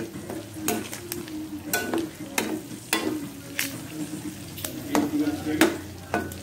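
Pork pieces and sliced red onion sizzling in oil in a wok while a metal spatula stirs them, scraping and knocking against the pan with repeated, irregular strokes.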